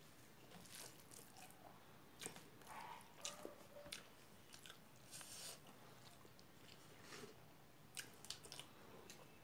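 Faint close-up eating sounds: a mouthful chewed with scattered crunches and wet mouth clicks, a few louder crunches now and then.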